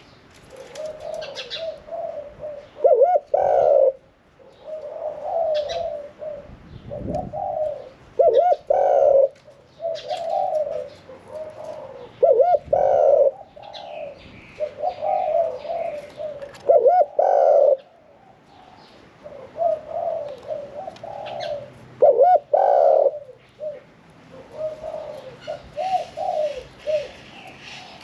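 Caged spotted dove singing its contest song: low cooing phrases that each end on a loud, emphatic note, repeated about every four to five seconds. Small birds chirp faintly in the background.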